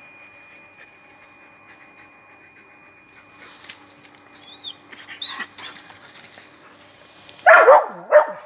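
Dogs whining with short high yelps partway through, then two loud barks near the end, at a cat they have chased up a fence.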